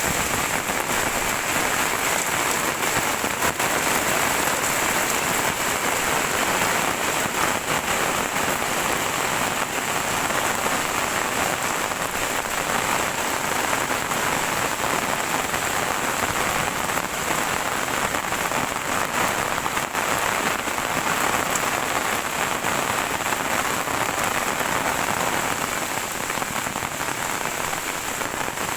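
Heavy rain falling steadily on surfaces, a dense even hiss of drops.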